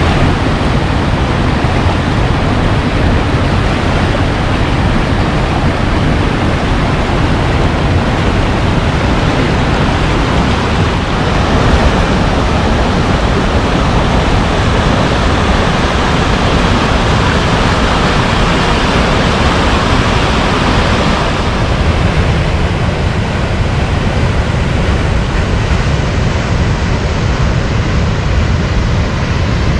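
Loud, steady rush of water from a waterfall, with a deep rumble underneath.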